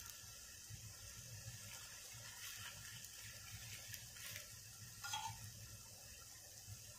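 Faint, steady sizzling of a pumpkin gharga frying in oil in a nonstick pan, with a few light clicks of a steel spoon as oil is spooned onto it, the loudest about five seconds in.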